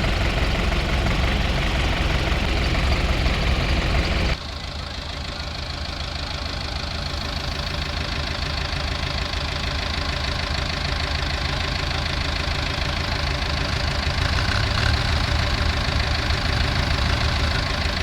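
Heavy diesel machinery engine running steadily at a loading site. The sound drops suddenly about four seconds in to a quieter engine drone that slowly grows louder again.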